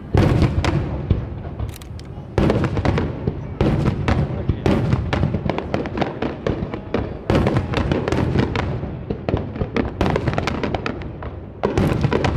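Starmine fireworks barrage: aerial shells bursting in rapid succession, several bangs a second with crackle in between, and clusters of louder bursts every second or so.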